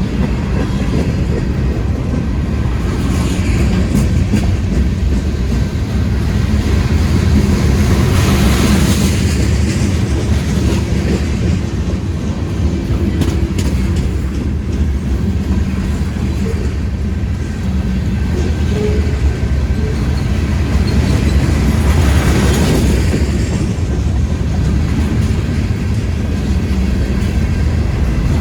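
Freight cars of a long CSX freight train rolling past, a steady rumble of wheels on rail with some clickety-clack. It swells a little louder twice, once about eight seconds in and once near the end.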